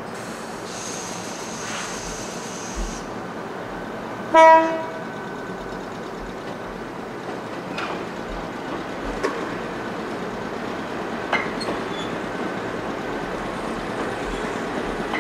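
Ichibata Electric Railway electric train rolling slowly through the station tracks with a steady running noise, and a few sharp wheel clicks over rail joints. About four seconds in, a train horn gives one short toot, the loudest sound here. Near the start there is a high hiss lasting a couple of seconds.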